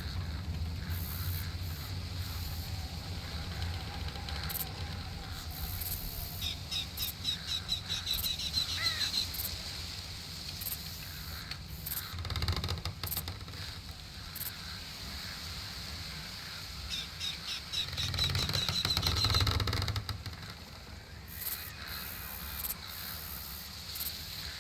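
Birdsong: a bird sings a rapid trill of evenly repeated high notes twice, about ten seconds apart, over a low steady rumble.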